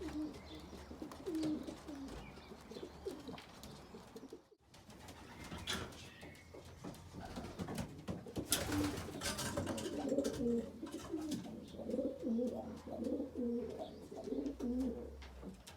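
Several racing pigeons cooing in a loft, their low calls overlapping throughout.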